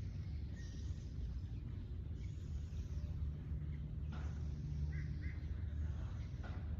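Outdoor nature ambience: a steady low rumble under a hiss that swells and fades, with a few short bird chirps about five seconds in.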